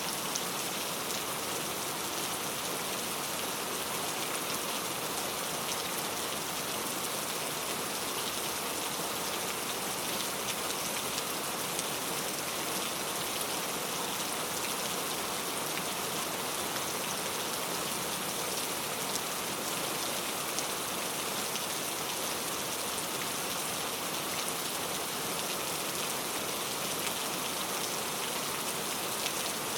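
Steady rain falling on a surface, an even patter of many drops without a break.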